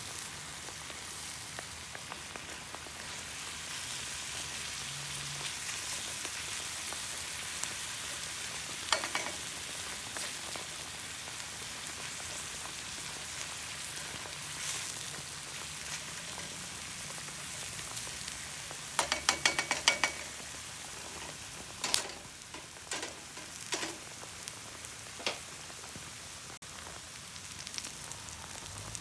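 Food sizzling in oil in a frying pan, a steady hiss. A few sharp clinks come from a utensil stirring it, with a quick run of them about two-thirds of the way through.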